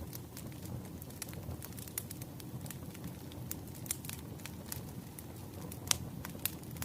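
Wood fire burning: a steady low rumble with frequent irregular sharp crackles and pops, one louder pop near the end.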